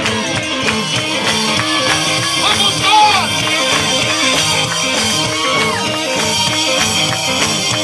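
Live gospel quartet music played loud by a band: a stepping bass line under drums, with a lead singer's voice riding over it.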